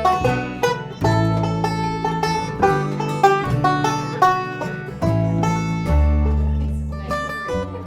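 Instrumental passage of a folk song: banjo picking a quick melody of plucked notes over guitar and a bass line of long, low notes.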